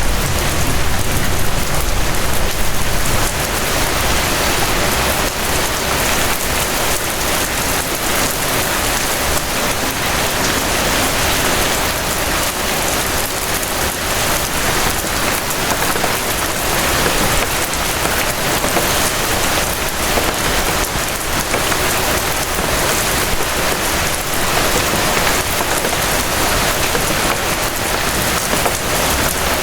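Steady rain falling, a dense even patter throughout, with a low rumble underneath during the first few seconds.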